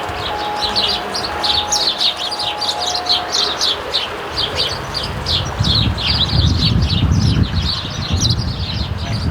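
A flock of house sparrows chirping continuously, many rapid overlapping chirps. A low rumble comes in from about halfway through.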